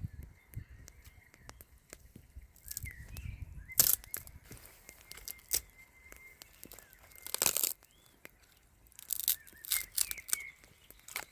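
Intermittent bursts of rustling and crackling, the loudest about four seconds in and again near the middle, with a few faint bird chirps between them.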